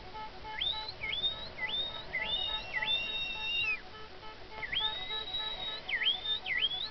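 Dolphins whistling: a rapid string of short rising whistles, some levelling off into a held note, with two sometimes overlapping.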